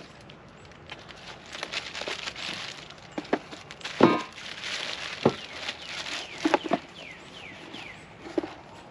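Packaging being handled during an unboxing: irregular rustling and crinkling with several sharp knocks and clicks, and a few short squeaks near the end.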